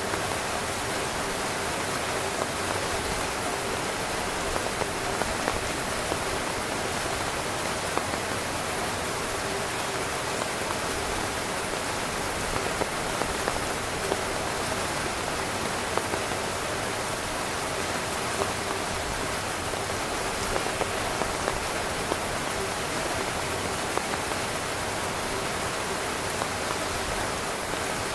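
Heavy rain falling steadily on a camping tent, with scattered louder drop hits on the fabric.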